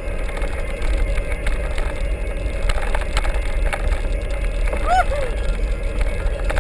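Mountain bike being ridden over a rough trail: steady wind rumble on the microphone with frequent rattles and knocks from the bike. A brief squeak comes about five seconds in.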